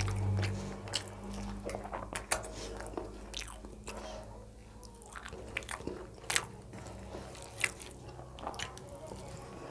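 A person chewing a mouthful of rice, dal and fried vegetables close to the microphone: irregular wet smacks and mouth clicks, with a low steady hum underneath.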